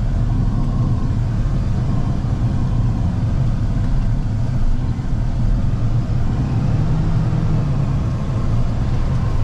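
Steady engine and road drone inside a truck's cab while driving, mostly a low rumble.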